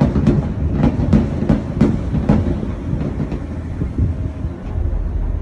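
Fireworks bursts, a quick run of sharp bangs that thin out after about two and a half seconds, heard from inside a moving Skyliner gondola cabin over its steady low rumble.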